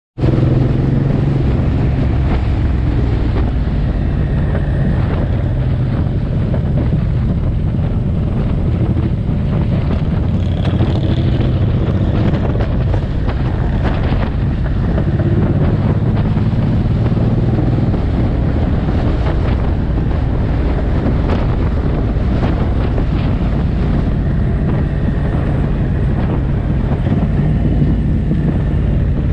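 Suzuki M109R's V-twin engine running steadily, with wind noise on the microphone.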